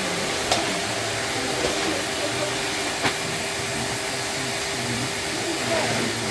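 Numatic George wet-and-dry vacuum cleaner running with a steady motor hum and airflow noise. Two light knocks come about half a second and three seconds in.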